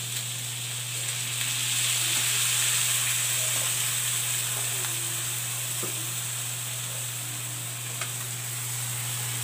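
Pork and onions frying in a hot pan, a steady sizzle. It swells about two seconds in as soy sauce is poured over the meat, then slowly settles.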